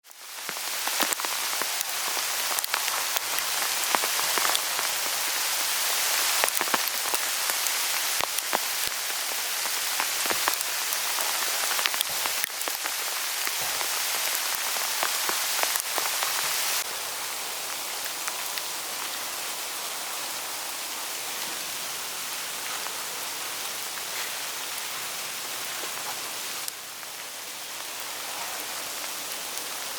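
Hail falling on autumn forest leaves: a dense hiss peppered with many sharp ticks of single hailstones, easing about 17 seconds in to a softer, steadier rustle with few ticks.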